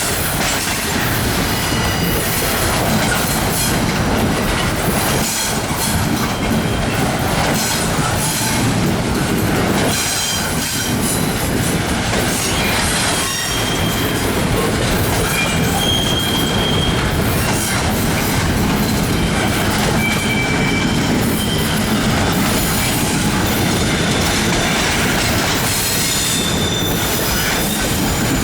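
Train cars rolling past close by: a steady rumble of wheels on rail, with brief high wheel squeals now and then.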